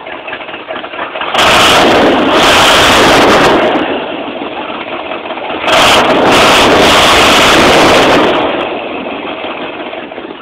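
1987 Oldsmobile Cutlass Supreme's 350 V8 idling through its exhaust pipes and revved hard twice, each rev held for about two to three seconds before falling back to idle.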